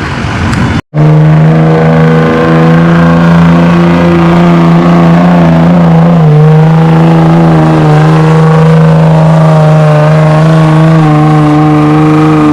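Pickup truck engine held at high revs under load while pulling the sled, a loud steady drone that dips slightly in pitch about halfway and drops off at the end.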